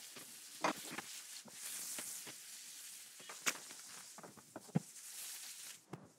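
Chorizo frying faintly in its own fat on a griddle plate, a soft hiss, with a few sharp clicks and taps of utensils against the plate.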